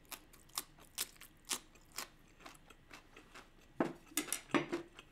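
Crunchy chewing of a slice of pickled yellow radish (danmuji), with a crisp crunch about twice a second. About four seconds in come a few softer, lower mouth sounds.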